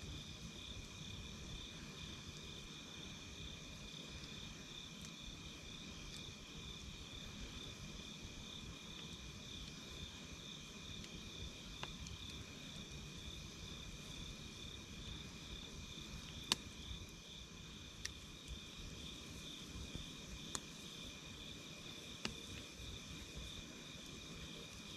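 A steady chorus of night insects, crickets trilling in a continuous pulsing drone, over the low sound of a campfire burning. A handful of sharp pops from the fire come in the second half, the loudest about two-thirds of the way through.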